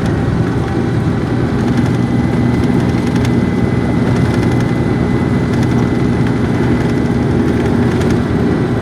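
Steady road and engine noise inside a car cruising on a highway: an even low rumble of tyres and engine that holds level throughout.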